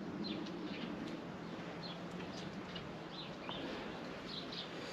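Birds chirping in short, scattered calls, with a faint steady low hum underneath.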